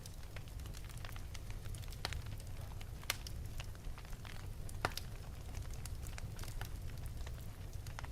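Wood fire burning in an open fireplace: a steady low rumble with irregular sharp crackles and pops, two louder pops at about three and five seconds in.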